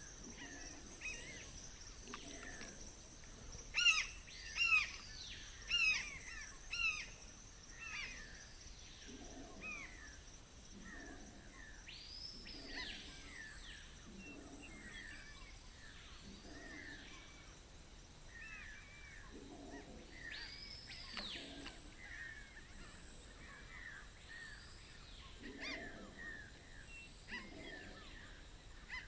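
Wild rainforest birds calling, with many repeated whistled notes that rise and fall, and several louder short chirps a few seconds in, over a steady high-pitched tone.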